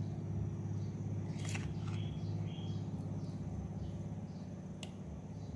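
Small birds chirping in short, falling notes over a steady low hum, with two sharp clicks.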